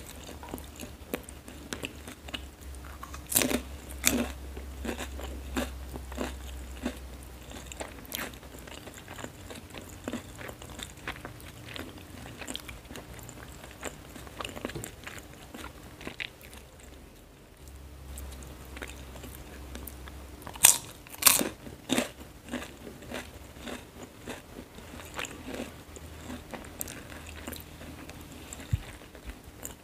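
Close-miked eating of fried noodles: steady chewing with many small clicks and a few sharp crunches. The loudest crunches come about three to four seconds in and again about twenty-one seconds in.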